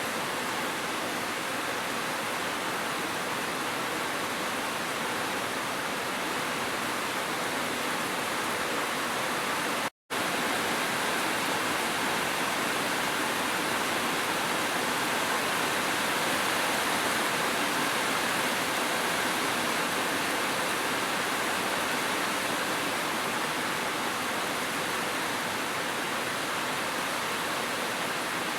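Steady rush of falling water from gentle rain and a waterfall, even and unchanging, with a split-second dropout about ten seconds in.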